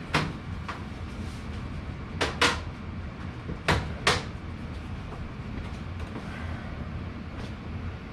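Sharp knocks and clunks from handling HVAC duct and booster-fan parts during installation, about six of them, with two close pairs in the middle, over a steady low hum.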